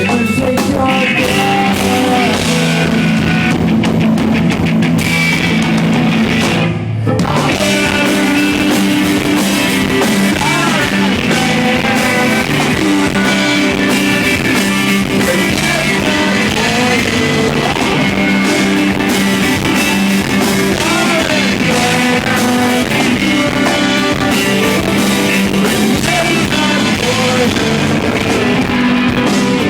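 Live rock band playing loudly, with guitars and singing, recorded on an iPod's microphone. The music breaks off for a moment about seven seconds in, then carries on.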